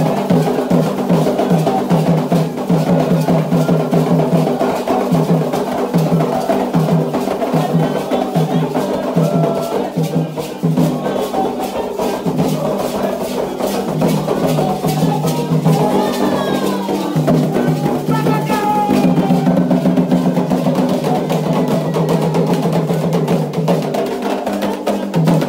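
Candomblé ceremonial music: atabaque hand drums and a struck bell or wood-like beat keep up a fast, steady rhythm, with voices singing over it.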